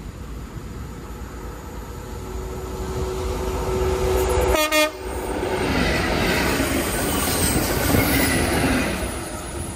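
Class 66 diesel freight locomotive approaching and sounding its two-tone horn, which grows louder and breaks off about five seconds in. Then the loud rumble and clatter of the locomotive and its container wagons passing close by, easing off near the end.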